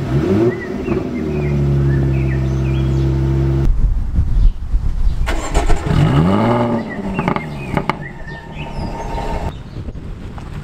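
Jaguar F-Type V6 S's supercharged 3.0-litre V6 starting up: the revs flare and drop back, then hold at a steady fast idle. After a cut the throttle is blipped, one rev rising and falling and a shorter one after it, before the engine settles to a quieter idle.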